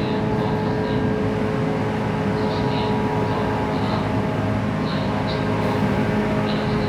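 Interior running sound of a JR 117-series electric train travelling steadily at speed: a continuous rumble of wheels on rail, with steady motor and gear tones held at one pitch.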